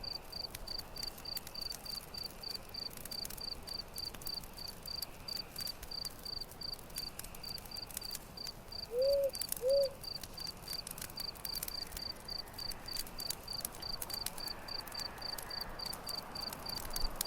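Campfire crackling with scattered sharp pops, over a cricket chirping steadily about four times a second. About nine seconds in, a bird gives two short low hoots.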